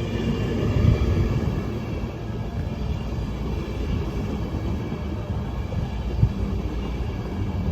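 A train moving through the station, a steady low rumble with a sharp knock about six seconds in.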